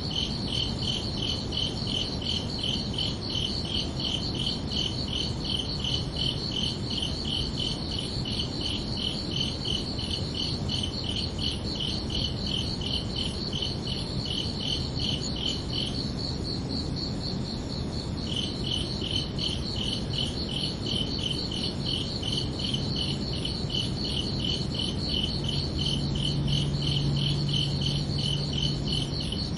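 Crickets chirping steadily in an even, rapid pulsing rhythm, two of them at different pitches; the lower-pitched one stops for about two seconds around the middle, then resumes. A low hum joins near the end.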